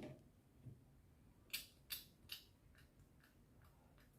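A few faint, short clicks and light taps, about six spread over four seconds: small containers and utensils being handled while an ingredient is measured out.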